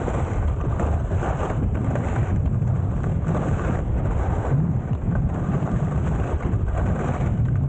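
Heavy wind buffeting the microphone: a loud, uneven low rumble with gusty surges and no clear pitch.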